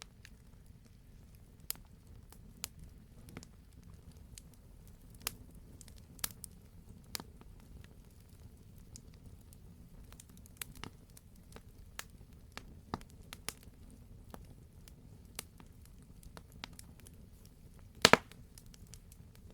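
Wood fire crackling in a fireplace: scattered sharp pops and snaps over a low steady rumble. The loudest, a quick double pop, comes near the end.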